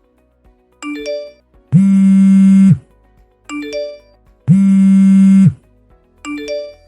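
Phone ringtone sound effect for an incoming call: a rising three-note chime heard three times, alternating with two loud buzzes about a second long.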